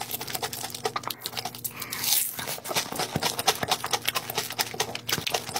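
Close-miked chewing of a mouthful of food with the mouth closed: a rapid run of wet clicks and small crunches, with a short breathy hiss about two seconds in.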